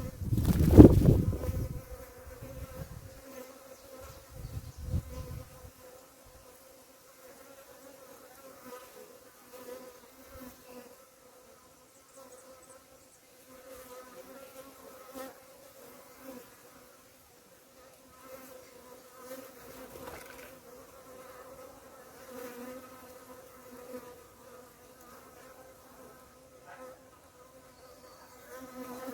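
Bees buzzing steadily in flight, a continuous droning hum. A brief loud low rumble on the microphone comes in the first second or two.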